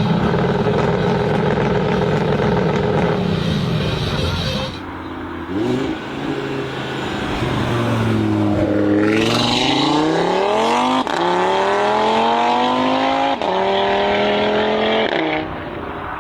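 Supercar engine under hard acceleration, its note climbing steeply in pitch through the gears with a brief drop at each upshift, twice in the second half. Before that comes a loud engine note and a short rev blip.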